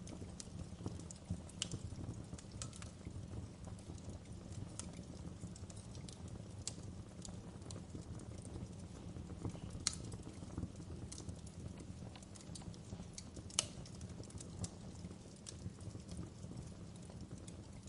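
Wood fire crackling in a fireplace: irregular sharp snaps and pops over a steady low rumble of burning logs, with a few louder pops.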